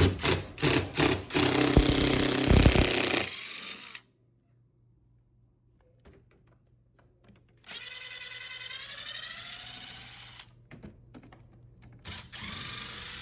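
Power drill running in separate bursts. First come a few sharp rattling knocks and a loud grinding run. After a few seconds of near silence there is a steady whine that rises slightly in pitch, and a last short burst comes near the end.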